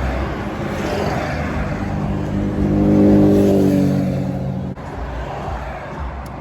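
A car engine accelerating nearby on a highway, swelling to its loudest about three seconds in, then cutting off abruptly.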